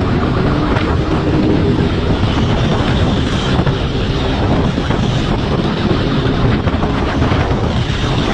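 Motorcycle engine running at speed, buried under heavy wind rush on the microphone.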